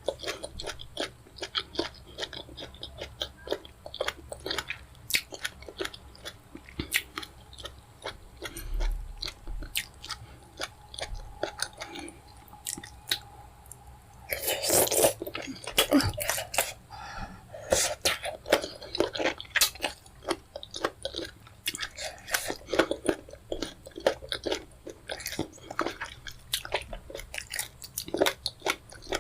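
Close-miked chewing and wet mouth smacks of someone eating fufu with pepper soup: irregular quick clicks and smacks, with a louder, denser stretch about halfway through.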